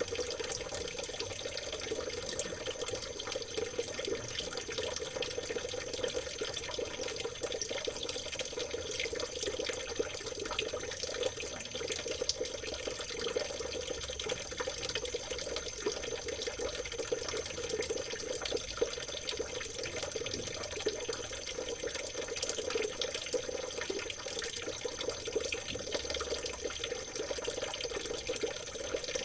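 Stream water trickling and babbling steadily, with many small splashes and drips.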